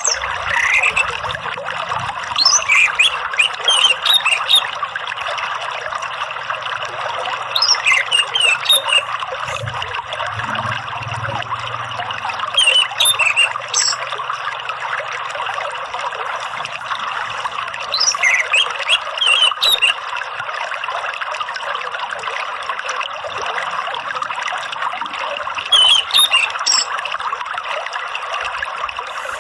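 Steady trickling, flowing water with orange-headed thrush song over it: about five bursts of quick, varied whistles and chirps, each a second or two long and spaced several seconds apart.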